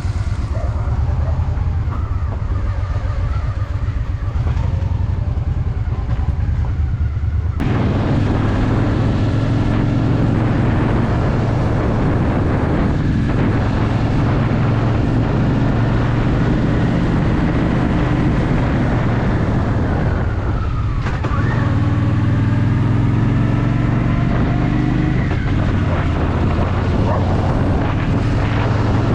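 Honda Shadow VT750's V-twin engine running steadily, then pulling away about eight seconds in, louder and noisier from then on, the engine pitch rising and falling with changes in revs.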